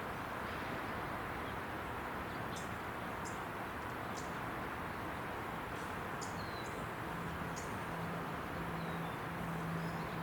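Steady roar of freeway traffic, with a dozen or so short high bird chip notes scattered through it. In the second half a low droning hum comes in, broken into pulses.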